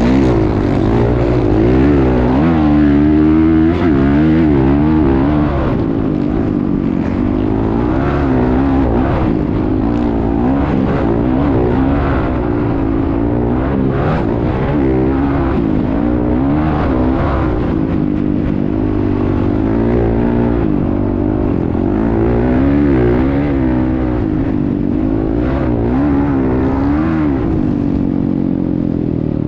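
Motocross bike engine running hard, its pitch rising and falling over and over as the throttle opens and closes.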